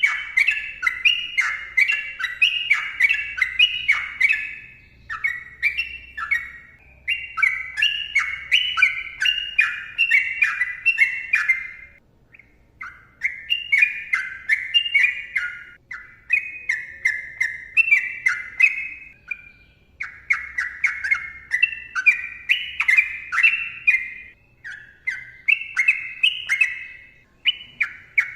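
Sooty-headed bulbul singing a long, fast run of bubbling, warbled notes in close phrases, broken by brief pauses every few seconds.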